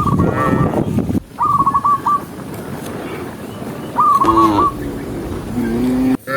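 A bird calling in three quick runs of short, repeated whistled notes. Under the calls runs a low rustling shuffle, and a cow starts a low moo near the end.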